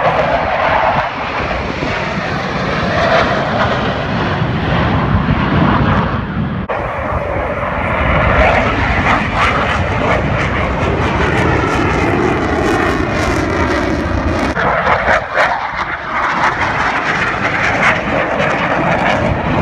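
Blue Angels F/A-18 Hornet jets flying past at an airshow, loud jet noise with the pitch sweeping as they pass, dipping briefly twice.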